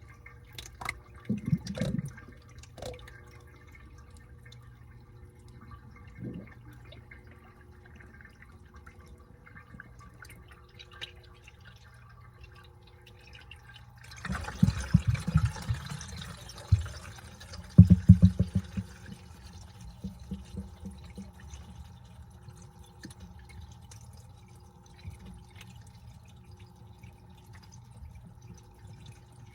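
Washing machine churning a load of laundry, water splashing and dripping in the drum, with a louder stretch of rushing water and thuds about halfway through.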